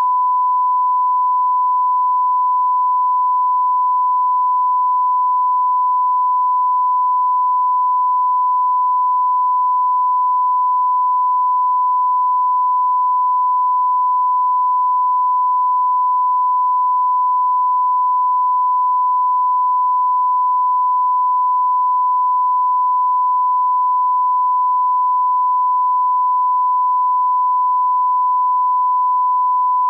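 A single steady 1 kHz sine tone held at constant level, with no other sound. It is a line-up test tone of the kind placed at the head of an edited programme.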